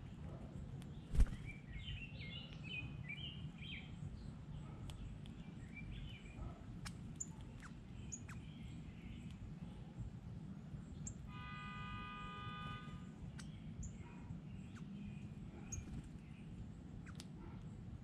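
Outdoor ambience: a steady low rumble with small birds chirping in the first few seconds. A sharp knock comes about a second in, with scattered small clicks after it. A steady pitched tone sounds for about a second and a half near the middle.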